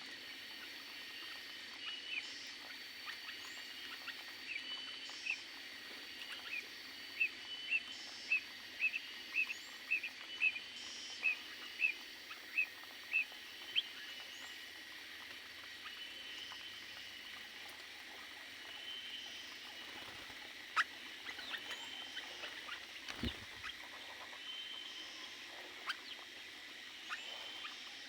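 Small cage birds chirping, with a quick run of about a dozen short chirps at roughly two a second partway through. A few scattered clicks follow.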